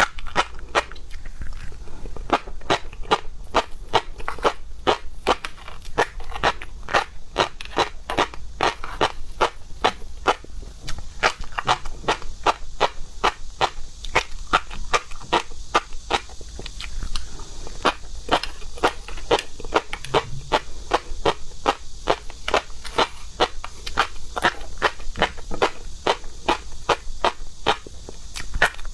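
Close-miked chewing and mouth smacking while eating seafood: a steady run of sharp clicks, about three a second.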